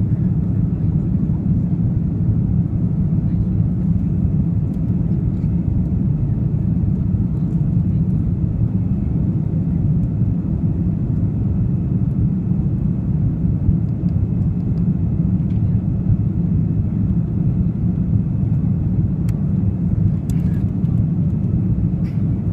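Steady low rumble of engine and airflow noise inside an Airbus A330-300's passenger cabin, unchanging throughout, with a few faint ticks near the end.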